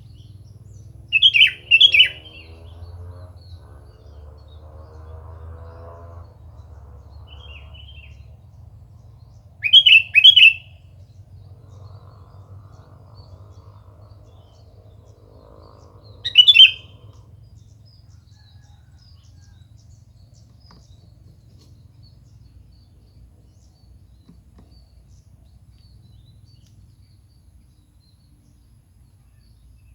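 Sooty-headed bulbul (kutilang) calling: short bursts of bright chirping notes, a pair about a second in, another pair near ten seconds, and a single burst around sixteen seconds, over a faint low hum.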